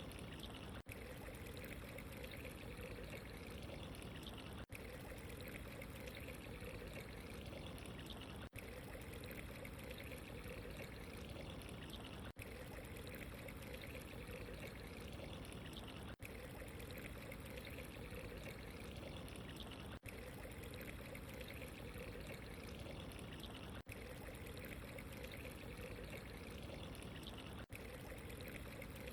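Steady running water, a continuous trickling pour, with a very brief dip in level about every four seconds.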